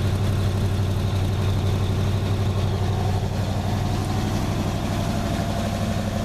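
Chevrolet 350 small-block V8 idling steadily, freshly cold-started and still warming up.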